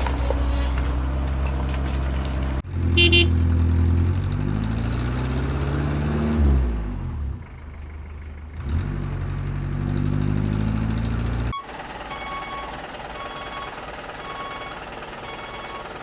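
Truck engine sound running and changing pitch, rising and falling, with a short horn toot about three seconds in. It cuts off suddenly and is followed by a steady, evenly repeating beeping.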